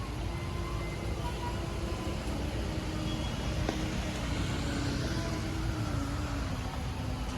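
Motor vehicle traffic: engines running with a steady low rumble and a wavering engine hum, and road noise swelling a little midway.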